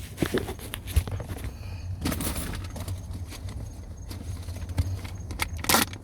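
Scattered light clicks and knocks of the plastic seat HVAC filter and its housing being handled, with a louder knock near the end, over a steady low hum.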